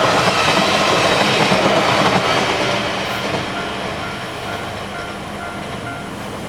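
JNR-era diesel railcar running by, its engine and rail noise loud at first and fading over the second half. A faint, evenly pulsing tone is heard in the later part.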